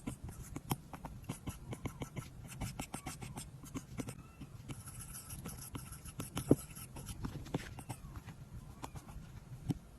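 Apple Pencil's plastic tip tapping and stroking on an iPad's glass screen: a run of quick, light taps with a brief scratchy drag in the middle, and one sharper tap about six and a half seconds in.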